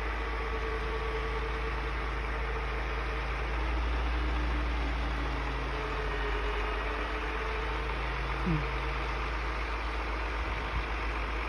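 Heavy truck engines running at a steady idle, swelling a little about four seconds in, as a tow truck works to pull a garbage truck out of deep snow.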